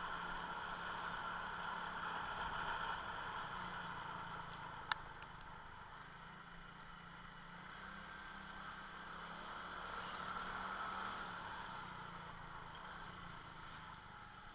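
A motor vehicle's engine running steadily. It fades a little about five seconds in and swells again around ten seconds, with a single sharp click about five seconds in.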